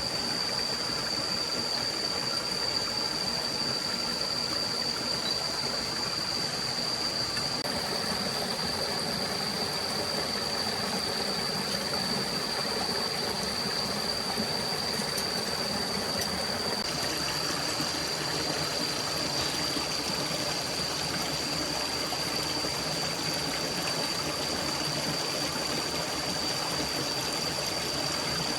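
A forest stream running, a steady rush of flowing water, with a constant high-pitched whine.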